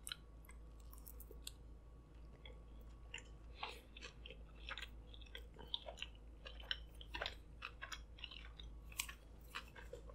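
A person chewing a bite of sushi roll with a crunchy crumb topping: many small, irregular crunches and wet mouth clicks.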